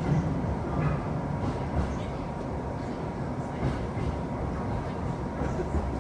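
Passenger train running on the line, heard from inside the carriage: a steady rumble of wheels on rails with a few faint ticks.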